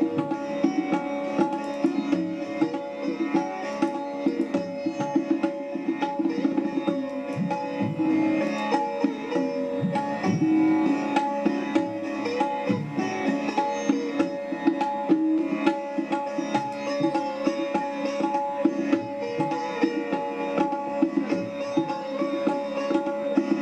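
Background instrumental music: plucked strings over a steady drone, with frequent hand-drum strokes.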